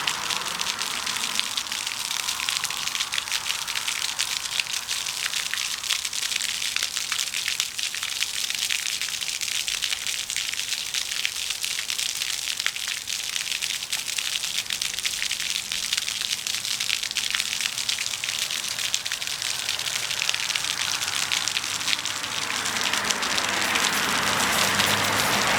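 Floodwater rushing and splashing, a steady, crackling hiss of churning water.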